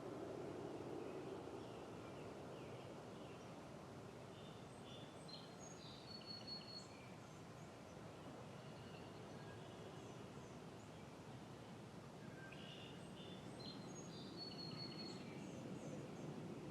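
Quiet outdoor ambience: a steady low rush with faint songbird chirps coming in two clusters, about five seconds in and again around thirteen to fifteen seconds.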